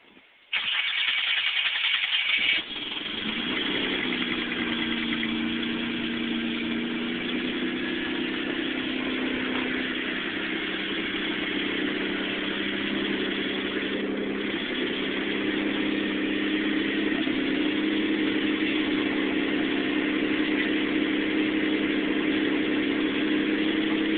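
Mitsubishi 3000GT's 3.0-litre V6, newly converted to twin turbos, cranked by the starter for about two seconds on its first start, then catching and settling into a steady idle.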